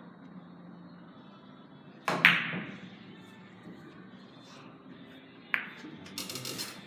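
Carom billiard balls and cue clicking during a three-cushion shot: a loud, sharp double click about two seconds in with a short ringing tail, another single click a few seconds later, and a quick run of small clicks near the end.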